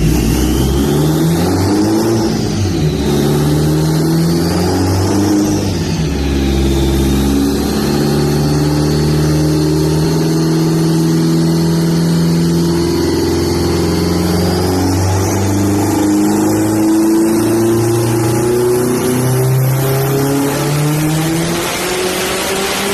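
Built, turbocharged Subaru WRX STI 2.5-litre flat-four running loud through a hood-exit exhaust, its pitch stepping up and down as it is driven and climbing steadily near the end. A thin high whistle glides up and down above the engine.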